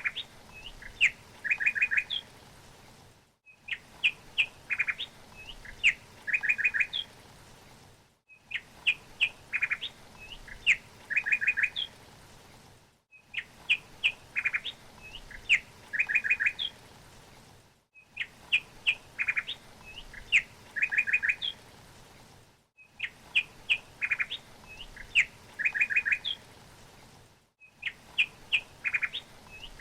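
Birdsong: a short phrase of a few sharp chirps followed by a quick run of rapid notes, repeated identically about every five seconds with a brief dead-silent gap before each repeat, the sign of one short recording looped over and over.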